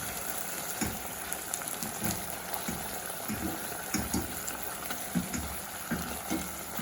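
Butternut, peas and chicken cooking in chicken stock in a pan, bubbling and sizzling steadily, with soft irregular knocks about once a second as the food is pressed and mashed in the pan with a utensil.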